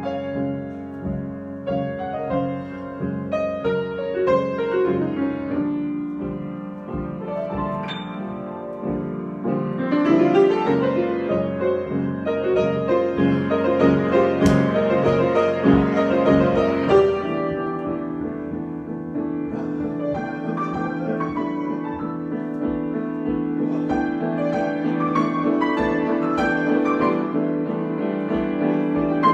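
Solo piano improvisation: flowing runs and chords, swelling louder with a rising run about a third of the way in, then settling into held, ringing chords.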